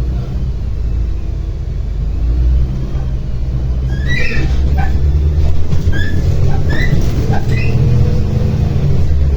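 Inside a MAZ-105 articulated city bus on the move: a steady low rumble of the engine and road. About halfway through comes a run of short, high squeaks that lasts a few seconds.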